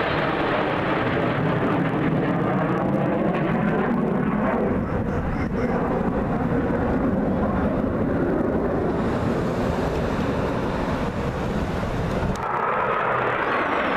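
Airplane flying past in a low pass, a loud continuous roar whose tone slowly slides as it goes by. The sound changes abruptly about twelve seconds in.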